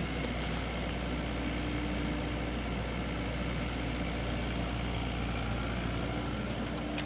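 Excavator engine running steadily, a low even drone with a faint steady hum.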